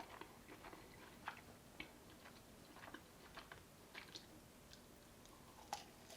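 Jumbo all-beef wieners cooking, giving faint, scattered crackles and pops.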